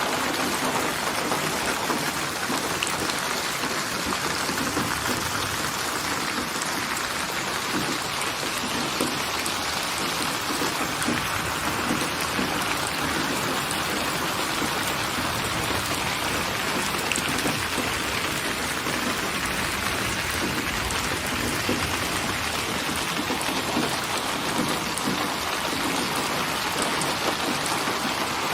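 Steady rainfall, an even hiss of many drops pattering on surfaces, with no change in strength.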